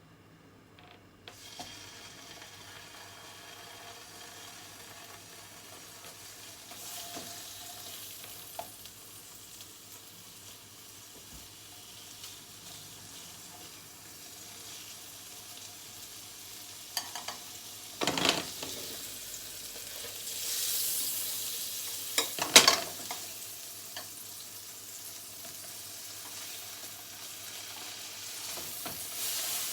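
Sliced venison loin sizzling as it fries in butter in a pan. The sizzle starts about a second in, with a few sharp clatters of a utensil against the pan in the second half.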